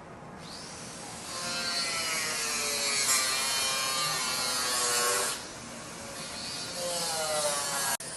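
A power tool running with a hissing, rubbing sound, its whine dipping in pitch and recovering several times as it is loaded and eased off, typical of a sander working on bodywork.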